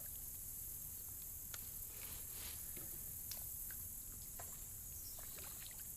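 Faint scattered light knocks and drip-like sounds around a kayak, over a steady high insect buzz.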